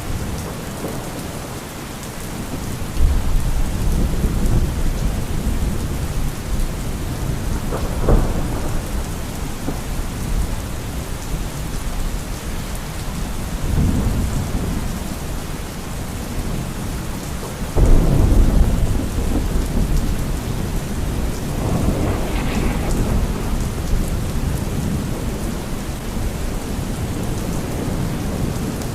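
Thunderstorm: steady heavy rain with thunder rumbling several times, the loudest claps about eight and eighteen seconds in.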